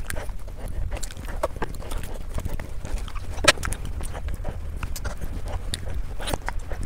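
Close-miked eating sounds: a quick run of wet chewing and mouth clicks as chocolate and cake are eaten, over a steady low hum. One sharp click stands out about three and a half seconds in.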